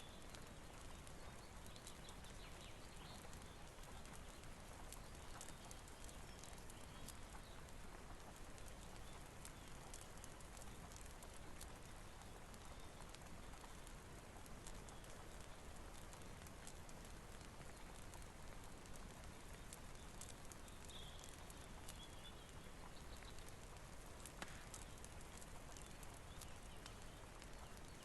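Quiet, steady rain hiss mixed with a wood fire crackling in small, irregular pops, and a few faint high chirps.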